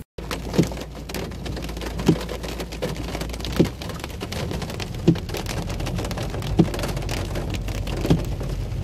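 Heavy rain pelting a car's windshield and roof, heard from inside the cabin, with the windshield wipers thumping about every second and a half.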